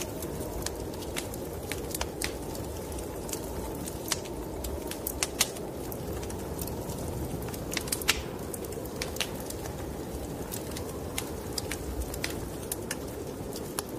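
Wood fire burning in a fireplace, crackling with frequent irregular sharp pops over a steady low rush.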